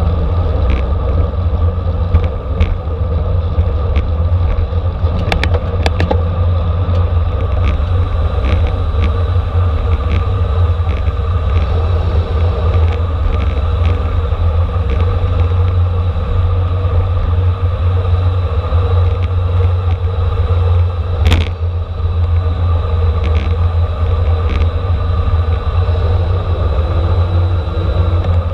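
Steady wind rush and road rumble from a racing bicycle moving at speed in a criterium, loudest in the low end, with scattered light clicks and rattles from the bike.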